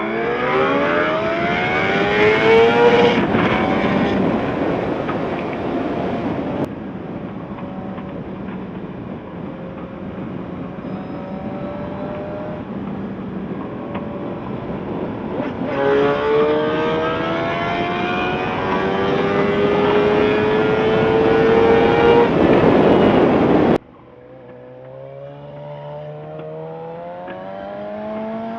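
Suzuki GSX-R750 inline-four engine accelerating hard under wind rush, pitch rising through the revs for the first few seconds and again in a long pull later on. Near the end the level drops suddenly as the throttle closes, and the engine runs on more quietly.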